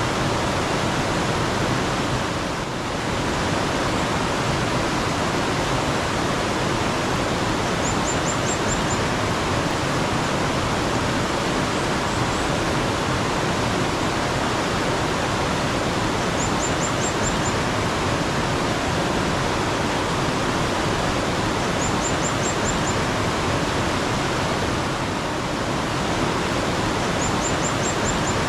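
Steady rushing of a mountain stream. A small bird gives a very high, quick run of about five notes four times, every five or six seconds.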